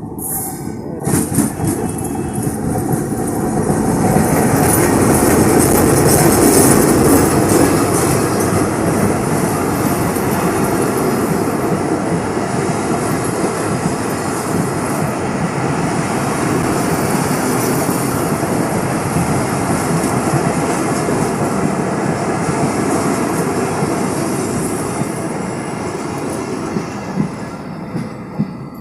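Nakshikatha Commuter train pulling into the station and running close past, wheels rumbling on the rails. It builds to its loudest about six seconds in, then eases slowly and dies away near the end.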